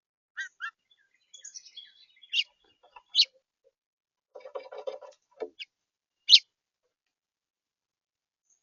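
Small birds chirping: a string of short, high, separate chirps, with a lower, rough burst of sound about four and a half seconds in.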